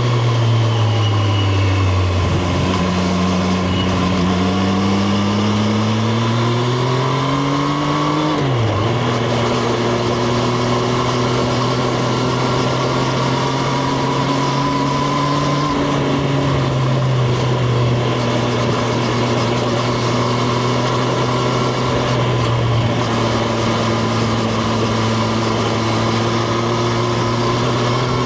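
Triumph Street Triple RS's 765 cc inline three-cylinder engine, heard onboard while riding. The revs dip, then climb for several seconds and fall suddenly at an upshift about eight seconds in. They then hold steady at cruising revs and begin rising again at the very end, with a steady rush of wind and road noise underneath.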